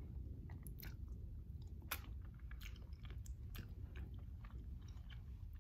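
A person chewing soft, cheesy food close to the microphone: faint wet mouth clicks and smacks, scattered irregularly, over a low steady background hum.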